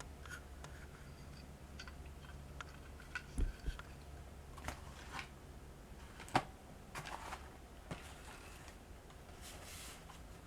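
Scattered small clicks, taps and rustles of a toy Land Rover and its cardboard box being handled, the sharpest taps about a third and two thirds of the way in, over a low steady hum.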